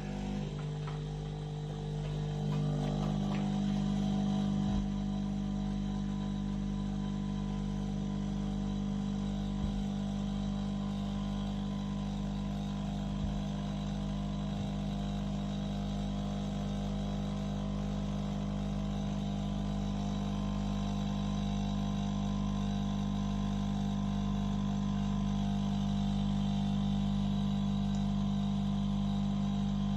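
Automatic bean-to-cup coffee machine running with a steady, even hum that starts suddenly, with a few faint clicks along the way.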